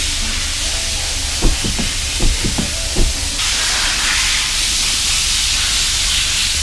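Steady hiss of body-shop tool work on a car's dented panel, with a few light knocks about a second and a half in. The hiss turns brighter and harsher about halfway through.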